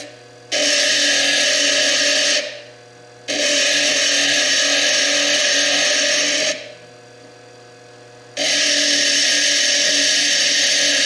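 Foredom bench lathe spinning an 80-grit burr, grinding down the chalcedony cap of a fire agate. Three long stretches of loud, harsh grinding as the stone is pressed to the burr, the first starting about half a second in, with short breaks between where only the motor's steady whine is left.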